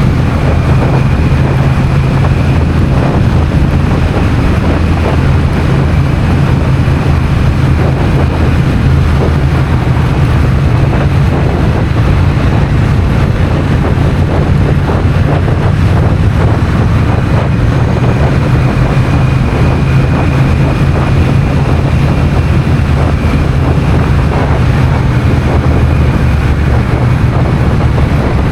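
Honda CMX1100 Rebel's parallel-twin engine running at a steady pace on the road, with wind rushing over the microphone.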